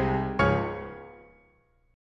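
Piano music: a chord struck about half a second in rings out and fades away to silence near the end.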